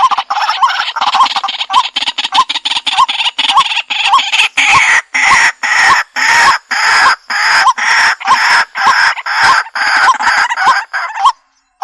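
White-breasted waterhen (dahuk) calling: a long, rapid series of loud, harsh repeated croaking calls, breaking off briefly near the end.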